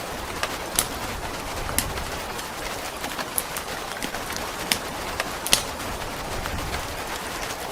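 Steady hiss of rain with the sharp pops and crackles of a wood fire every second or so, over a low rumble.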